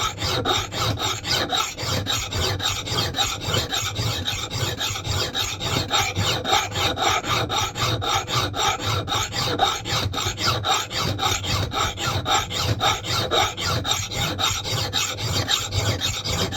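Hand file rasping across the steel bit of an axe head in quick, even back-and-forth strokes, reshaping a knot clipper axe's edge for chopping.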